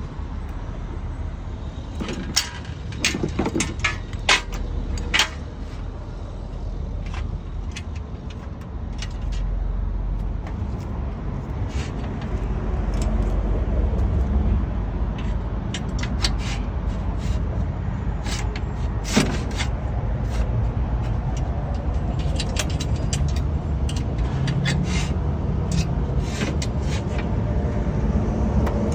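Low steady vehicle rumble, getting a little louder about a third of the way in, with scattered light clicks and ticks.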